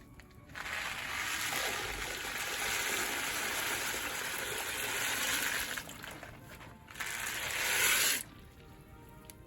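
Dried purple corn kernels poured into a large pot of nearly boiling water, a long hissing, rushing pour followed by a second shorter pour about seven seconds in that stops abruptly.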